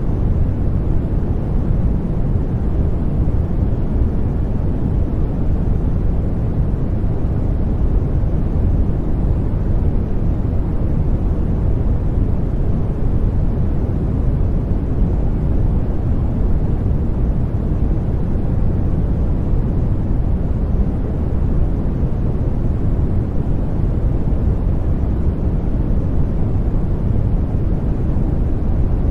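Steady baby-sleep white noise: a continuous, even rush with no changes, heaviest in the deep low end and fading toward the highs, so it sounds more like a soft rumble than a bright hiss.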